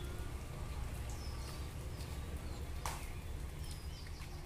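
Birds chirping in short, falling calls several times over a steady low rumble, with a single sharp click about three seconds in.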